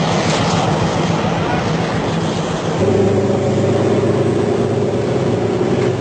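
A train's diesel engine running steadily under a constant rumble of wheels and car noise. A little under three seconds in, the engine's note grows stronger and slightly louder, as if the power has been notched up.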